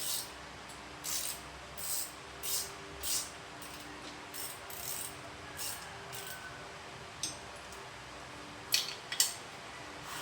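Metal hand tools working on a Kawasaki HD3 motorcycle's engine mounting bolt: a run of short rasping strokes in the first half, then two sharp metallic clinks near the end.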